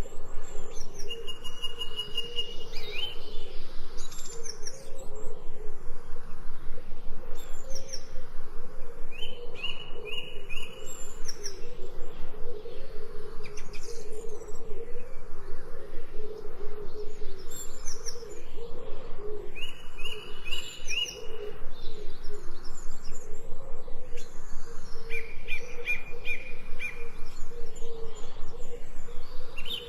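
Several wild birds singing: a repeated phrase of short, evenly spaced notes returns about every eight seconds, with quick high chirps in between. Under them runs a steady, fast, low pulsing that is the loudest sound throughout.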